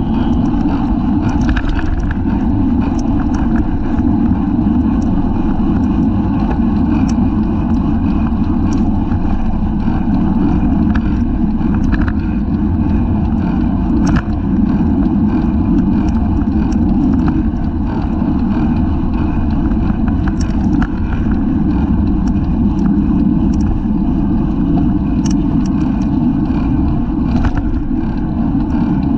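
Loud, steady wind rush over the microphone of a camera mounted on a racing bicycle at speed, with scattered small clicks and ticks.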